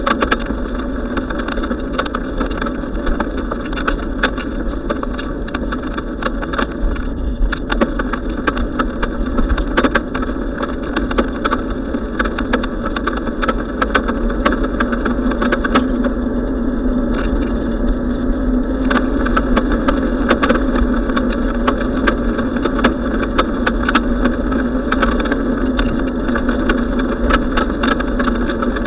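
Steady riding noise from a bicycle in motion: a constant rumble and hum with many small clicks and rattles scattered throughout.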